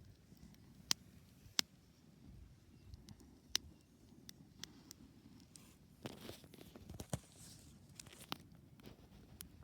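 Campfire crackling: irregular sharp pops and snaps of burning wood over a faint low rumble.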